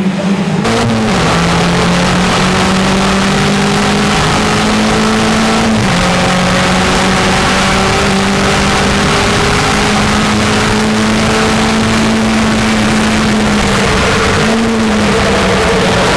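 Race car engine running hard and continuously at high revs, its note holding steady with brief pitch changes about a second in, around six seconds and near the end.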